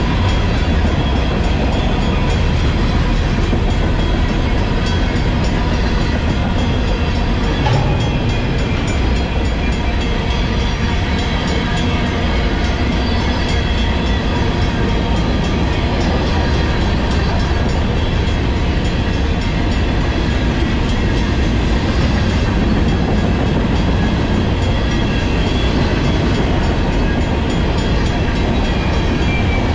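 Freight train of covered hopper cars rolling steadily through a grade crossing, its wheels rumbling and clattering over the rails, with the crossing's Western-Cullen-Hayes mechanical bell ringing continuously on top.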